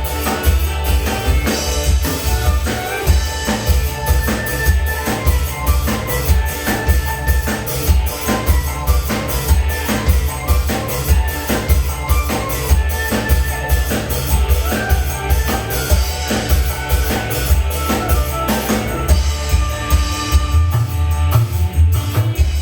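Dangdut band playing an instrumental passage: drums and bass keep a steady beat under melodic lines.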